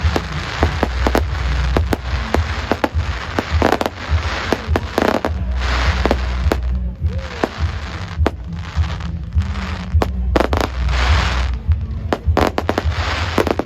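Fireworks going off: repeated hissing rushes lasting about a second each, mixed with many sharp cracks and pops.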